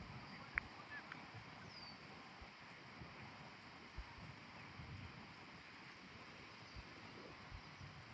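Faint outdoor background: a steady, fast, high-pitched pulsing over a low hiss, with one sharp click about half a second in.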